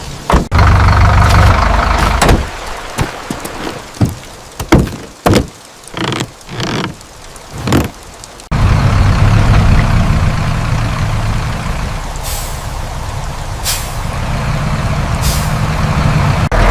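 Tractor engine running, cutting out after about two seconds to a series of sharp, irregular knocks and clanks, then running again from about halfway, with three short hisses near the end.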